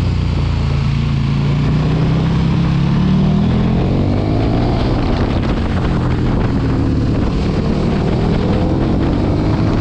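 Sport motorcycle engine under way, its revs climbing for about three seconds and then rising and falling again, with heavy wind rush on the microphone.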